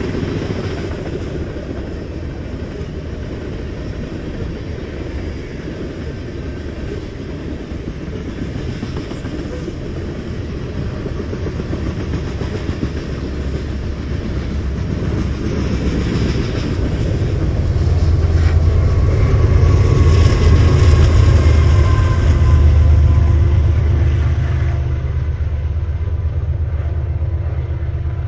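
Freight train of hopper cars rolling past, wheels clattering on the rails. A deep rumble builds in the second half, loudest around two-thirds of the way through, then eases as the last cars go by.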